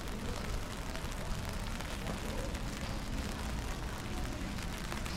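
Rainy street ambience: an even hiss of rain on wet cobblestones and umbrellas, with scattered light ticks of drops over a steady low rumble.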